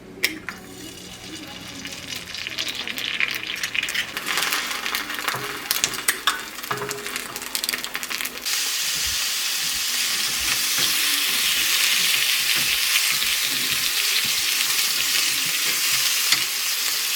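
Food sizzling in a frying pan, with scattered clicks of a utensil stirring it. About eight seconds in, the sizzling jumps suddenly louder and then holds steady.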